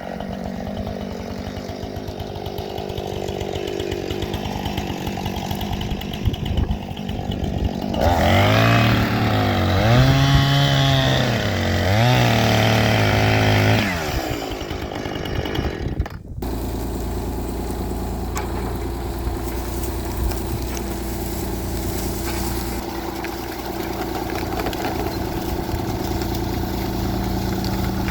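A chainsaw runs, rising and falling in pitch and growing louder through a cut in the middle. After a sudden break, an engine runs steadily.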